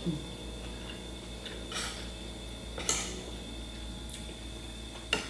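Cutlery clinking and scraping on a plate during a meal: a few short, sharp clicks about a second apart.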